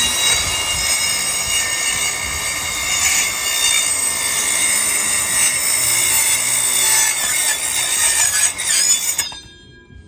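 Power tool cutting with a loud, high-pitched screech full of ringing tones, which stops suddenly about nine seconds in.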